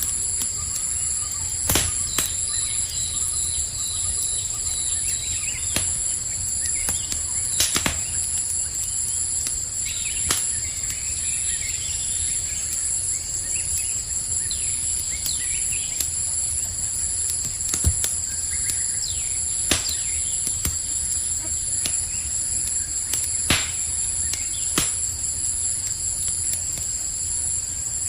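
Campfire crackling, with a sharp pop every few seconds over a low rumble, set against a steady high-pitched chorus of crickets. A few short bird chirps come through in the middle and near the end.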